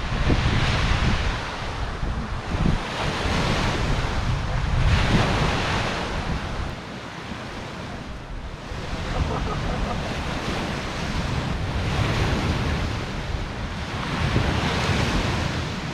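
Thunderstorm wind gusting against the microphone over a steady rush of heavy rain, swelling and easing every few seconds with deep low buffeting.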